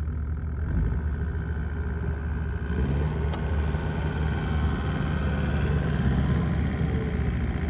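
Engine of a heavy snow-clearing machine running as it works, getting louder and busier about three seconds in.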